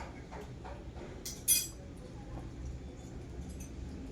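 A spoon clinks once against tableware, a short bright ring about a second and a half in, with a few faint light taps before it.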